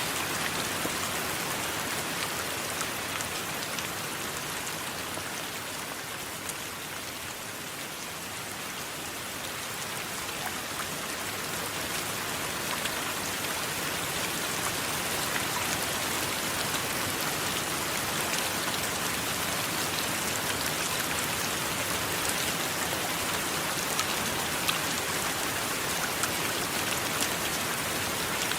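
Steady rain, with sharp ticks of single drops scattered through it; it eases slightly several seconds in and builds back up.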